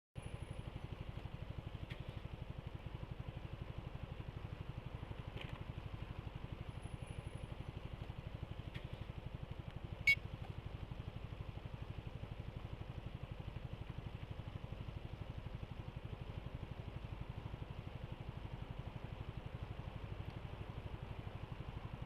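Single-cylinder engine of a BMW C400GT scooter idling with a fast, even low throb. There is a sharp click about ten seconds in.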